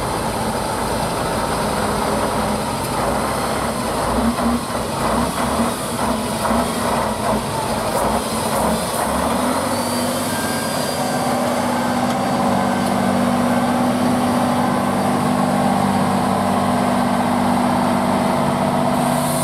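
Heavy off-road competition truck's diesel engine working under load. It comes with irregular knocks and rattles in the first half, then runs at a steady, held pitch through the second half.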